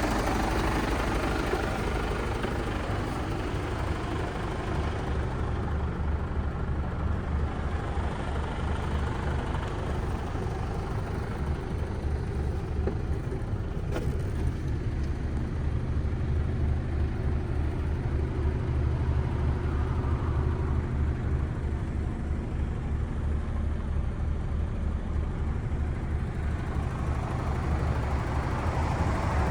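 Mercedes-Benz Actros MP5 tractor unit's straight-six diesel engine running steadily, a low, even hum throughout.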